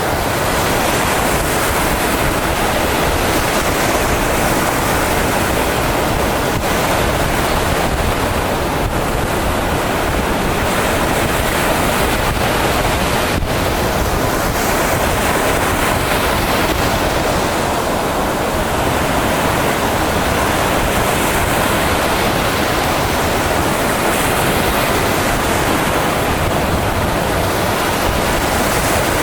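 Mediterranean Sea surf: a steady rushing of waves, without breaks and only slight swells in the hiss.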